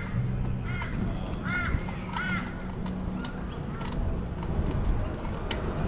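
A bird calling repeatedly in short arched calls over a steady low rumble of wind and street traffic.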